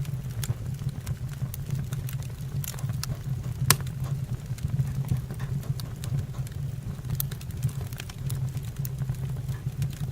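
Wood fire in a fireplace crackling: irregular sharp pops and snaps, the loudest a little over a third of the way in, over a steady low hum.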